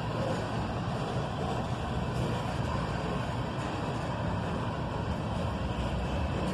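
Freight train of ethanol tank cars rolling past: a steady low rumble and rush of wheels on the rails.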